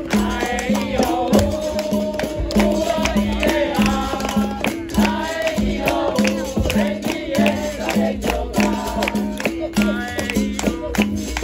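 Live capoeira roda music: berimbaus repeat a two-note rhythm with rattles and hand percussion striking in time, while voices sing a call-and-response song over them.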